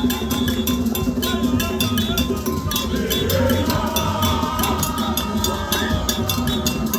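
Percussion music with a bell struck in a fast, even beat of about five strokes a second, with voices singing or chanting over it.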